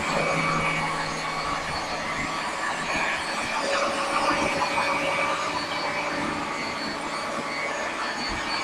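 Hoover Dual Power Pro carpet washer running: a kind of loud, steady motor drone with a high whine over it.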